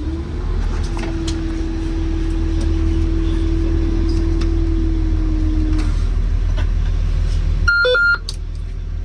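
School bus engine idling with a steady low rumble, a steady hum over it that stops about six seconds in, and a short electronic beep near the end.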